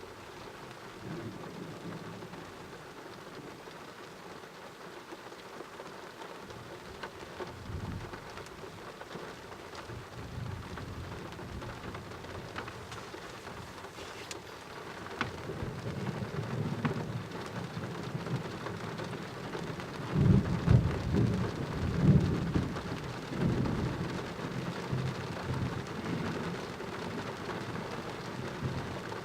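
Steady heavy rain with thunder rumbling in: a low rolling rumble builds from about halfway and is loudest about two-thirds of the way in, then tails off under the rain.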